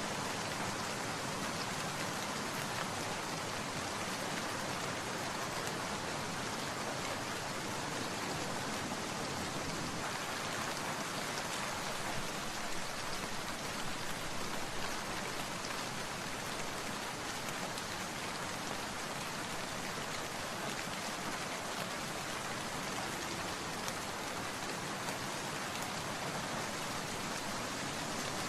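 Steady rain falling, an even patter of many drops on surfaces with no let-up.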